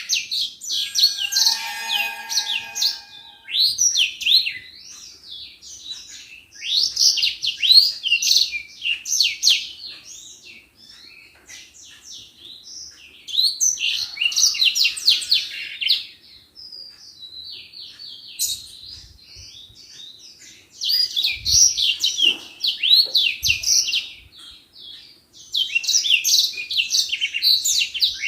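Edelsanger (burung Senger) songbird in full song: fast, high twittering trills in loud bouts of about three seconds, five of them, with softer chirps in between.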